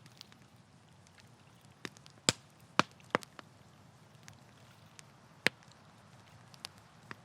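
Wood campfire crackling: a handful of loud, sharp pops about two to three seconds in and again past the five-second mark, among fainter crackles over a low steady background.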